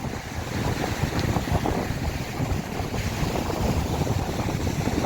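Wind buffeting the microphone: an uneven rushing noise with a heavy low rumble.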